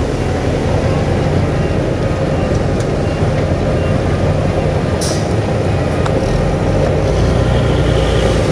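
Heavy diesel earthmoving machinery running steadily under load, with a deep rumble. A short hiss about five seconds in.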